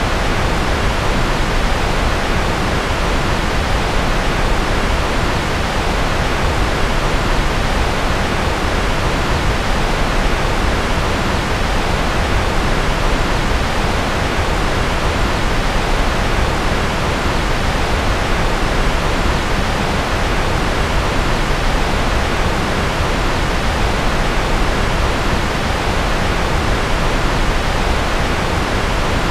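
Steady synthetic noise, an even, unchanging hiss that is fuller in the low end than at the top.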